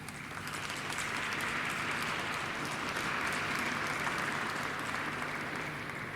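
Audience applauding, swelling about half a second in and easing off near the end.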